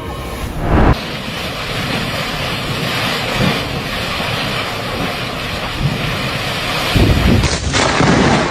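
Steady rushing roar of air with heavy gusts buffeting the microphone, loudest about a second in and again near the end.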